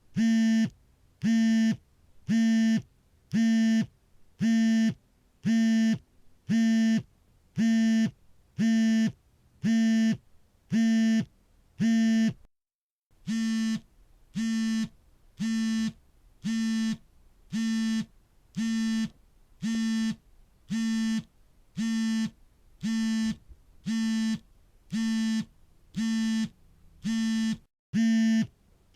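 Smartphone vibrating for an incoming call: half-second buzzes about once a second, each a steady buzzing hum. The pattern breaks off briefly about halfway through, then starts again.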